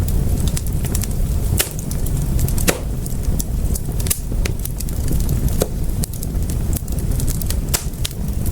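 Wood fire crackling in a fireplace: irregular sharp pops and snaps, a handful of them louder, over a steady low rumble of the flames.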